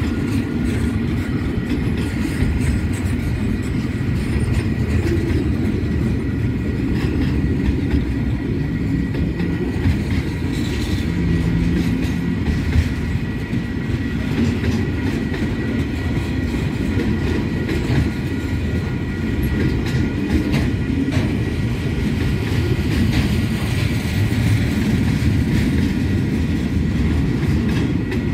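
KiwiRail diesel-hauled freight train passing through a level crossing: the trailing DXC-class locomotive goes by at the start, then loaded container wagons roll past as a steady low rumble with scattered clicks from the wheels.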